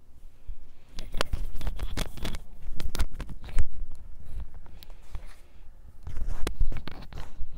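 Baked cornstarch chunks being bitten and chewed close to the microphone: two runs of loud, sharp crunching, one from about a second in and another near the end, with a short lull between.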